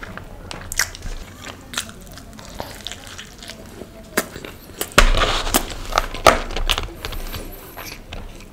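Close-miked chewing of a pizza slice folded like a taco around pasta and paneer tikka masala: crisp crackling clicks and wet mouth sounds, louder and denser from about five seconds in.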